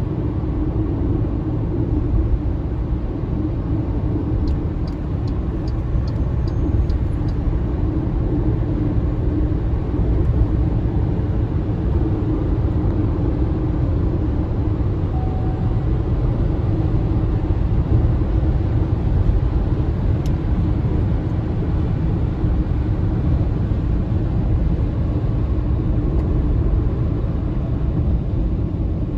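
MG ZS EV driving along at a steady speed: an even low road and tyre rumble with no engine note, with a short run of faint, evenly spaced ticks about five seconds in.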